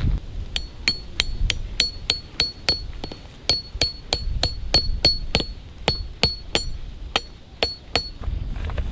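A rapid, even series of hard metallic strikes, about three a second, each with a short high-pitched ring, stopping shortly before the end.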